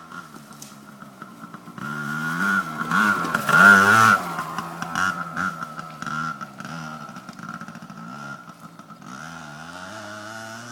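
Yamaha PW80 small two-stroke single-cylinder dirt bike engine revving up and down as the bike is ridden, loudest about three to four seconds in as it comes closest, then quieter and steadier, with another rev near the end.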